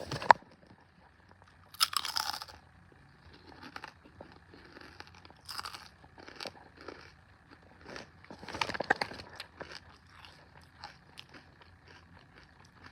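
A person biting into and chewing vacuum-fried okra crisps, close to the microphone. A sharp click at the very start is followed by a loud crunch about two seconds in, then irregular crunching chews, with another louder run of crunches about two-thirds through.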